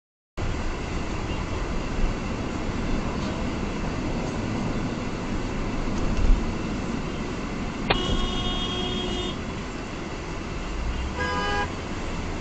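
Dashcam recording of a car in traffic: steady engine and road noise. A car horn sounds about eight seconds in and holds for about a second and a half, and a second, shorter honk comes near the end.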